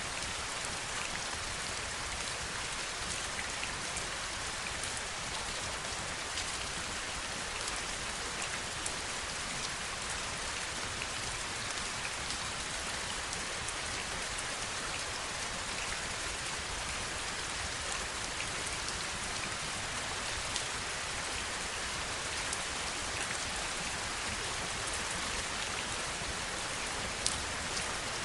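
Heavy rain falling steadily, a dense even hiss with scattered sharper taps of single drops striking a surface.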